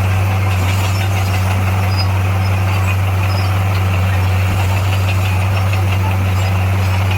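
Bulldozer's diesel engine running with a steady, unchanging low drone.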